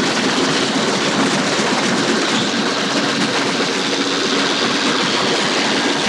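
Passenger train running at speed: a steady, dense rush of rail noise with a low hum underneath.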